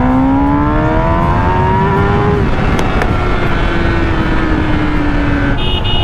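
Kawasaki ZX-10R's inline-four engine pulling hard, its pitch rising for about two and a half seconds, then dropping at a gear change and slowly falling as the throttle eases. A short high horn beep sounds near the end.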